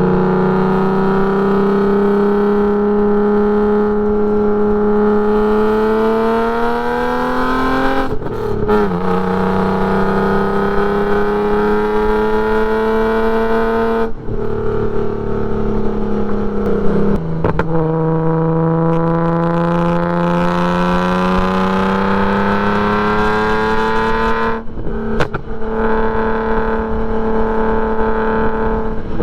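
A car engine driven hard on a race track. Its pitch climbs slowly and steadily, then falls sharply about four times, as at gear changes or lifts.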